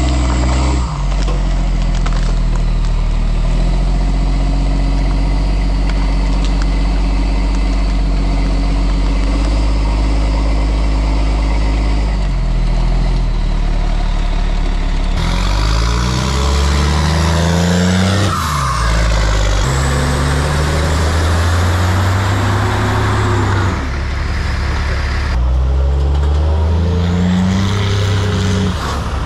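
Car engine running as the car is driven, its pitch shifting up and down in steps, with a louder rushing noise from about 15 to 25 seconds in.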